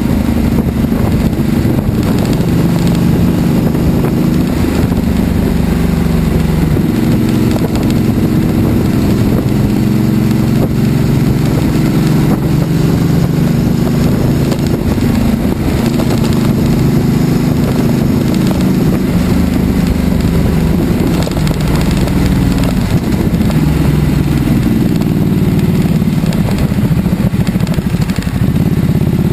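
Ducati Multistrada's V-twin engine running under way, its note rising and falling with the throttle several times, over a steady rush of wind noise.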